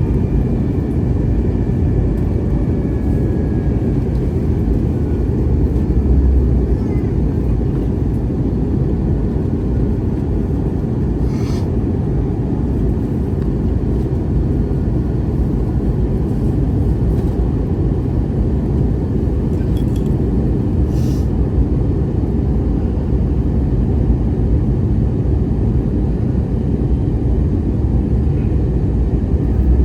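Steady low rumble of an Airbus A321neo's engines and airflow heard inside the passenger cabin, with a few faint clicks about a third of the way in and again about two-thirds through.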